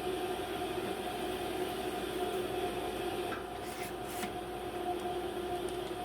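Steady workshop hum with two held tones, and a few light clicks about three and a half to four seconds in as wooden pieces and clamps are handled during a glue-up.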